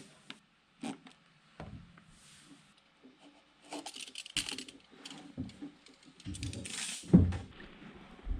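Irregular small clicks, taps and rustling of materials being handled while crafting, with a louder knock about seven seconds in.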